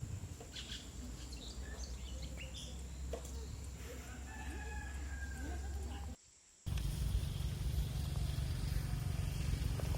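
Faint rural ambience: chickens and other birds calling in short scattered calls over a low steady hum. The sound cuts out briefly about six seconds in, then returns as a steadier low rumble with fewer calls.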